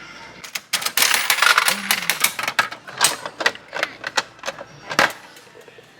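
A rapid, irregular run of clicks and rattles, like small hard objects being handled. It is most intense early on and ends with a last sharp click about five seconds in.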